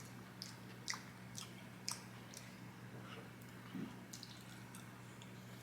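Close-miked chewing and wet mouth sounds from someone eating, with soft clicks about every half second for the first couple of seconds and once more later.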